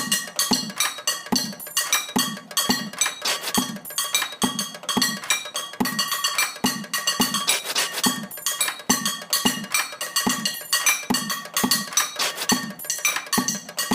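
Cooking pots of two sizes struck freely with a pencil and chopsticks, a quick stream of light metallic knocks and clicks. Under them runs a looping percussion beat with a steady low thump about every 0.7 seconds.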